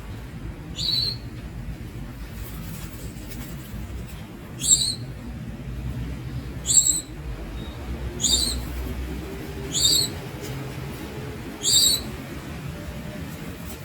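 Young Javan munia giving six short, high call notes, spaced about one and a half to four seconds apart.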